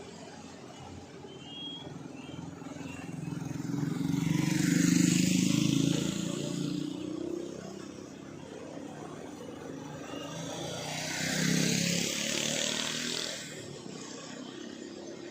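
Two road vehicles driving past one after the other, the first louder around four to six seconds in, the second around eleven to thirteen seconds in, each rising and fading away.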